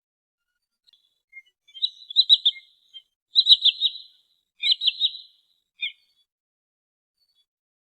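Sandpiper calling: three quick runs of three or four sharp, high notes, about a second and a quarter apart, then one short single note. A recorded lure call for drawing sandpipers in.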